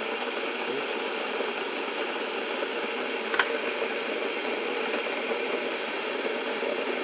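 Steady background hiss, with a single sharp click about three and a half seconds in.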